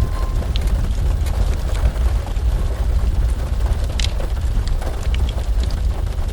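Heavy rain ambience: a steady deep rumble under an even hiss of rain, with scattered sharp crackles from a fireplace, the loudest about four seconds in.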